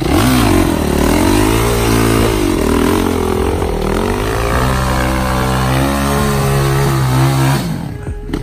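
450cc dirt bike engine running under throttle, its pitch rising and falling several times as it revs, then easing off near the end.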